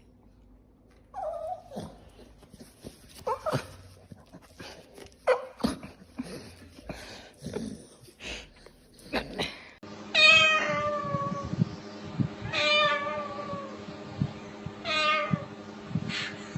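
Domestic cat meowing: a few short meows and small clicks, then, after a cut, three long, loud meows falling in pitch, about two and a half seconds apart.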